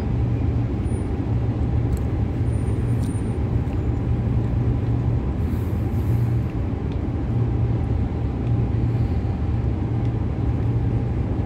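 Interior noise of a Transperth B-series electric multiple unit running at low speed: a steady rumble of wheels and running gear with a faint steady whine over it.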